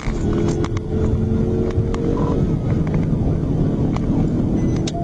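Police patrol car's engine and tyre noise heard from inside the cabin while driving, a steady loud rumble with a few scattered clicks.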